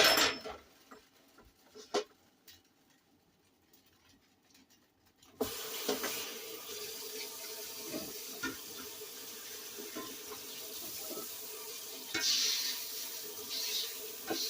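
A couple of clanks of kitchenware, a short pause, then about five seconds in a kitchen tap comes on suddenly and runs steadily into the sink, with splashier patches near the end.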